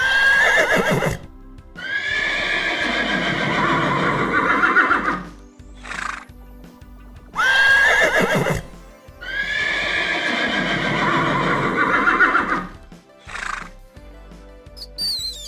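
Horse neighing twice, the same call repeated: a sharp high squeal that drops in pitch and runs into a long wavering whinny of about five seconds, each followed by a short breathy sound.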